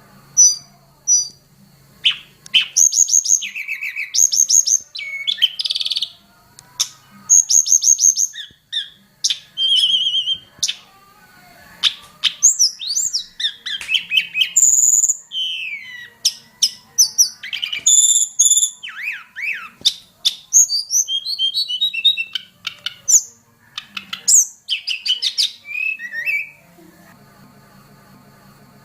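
A tledekan gunung, a mountain blue flycatcher, singing a rich, varied song of quick whistles, trills and sweeping notes in phrase after phrase. The song starts about two seconds in and stops near the end. A low buzzing hum sits underneath before and after the song.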